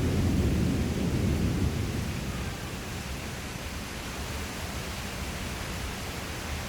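A low rumble of thunder dying away over the first two seconds or so, over steady rain that carries on alone afterwards.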